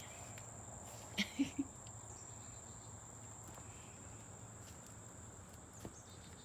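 Insects trilling outdoors: one steady, unbroken high-pitched tone. Three brief soft sounds about a second in.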